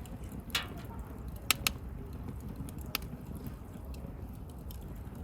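Wood campfire burning with a steady low rumble and a few sharp crackles and pops. The loudest two come close together about a second and a half in.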